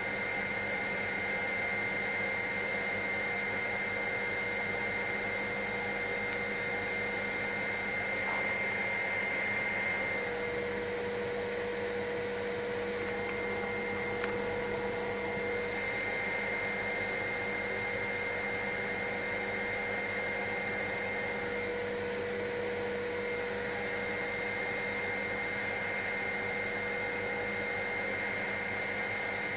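Helicopter engine and rotor noise heard inside the cabin in flight: a steady hum with a high whine over it, the mix of tones shifting slightly about ten seconds in.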